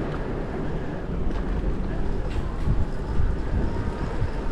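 Steady rush and rumble of riding an electric hybrid bike: air buffeting the microphone over the sound of the tyres on the path, with no clear motor tone.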